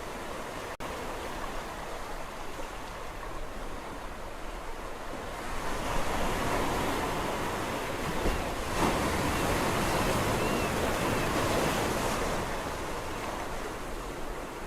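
Sea waves washing in steadily, with one larger wave building about five seconds in and drawing back out after about twelve. A momentary gap in the sound comes less than a second in.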